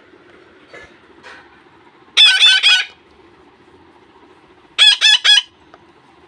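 One-month-old parrot chicks giving loud, shrill calls in two quick bursts of three or four notes each, the first about two seconds in and the second near the end, during hand-feeding of milk-soaked bread.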